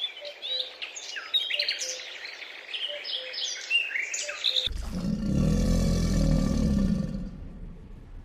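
Birds chirping rapidly, many short high calls, cut off suddenly about four and a half seconds in by a deep, drawn-out animal call that lasts about three seconds.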